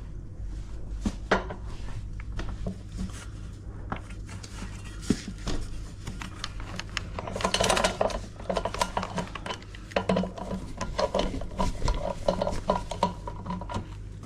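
Metal tools clinking and scraping against a washing machine's motor and drum parts during disassembly: irregular clicks and clatter, busiest about halfway through, over a steady low hum.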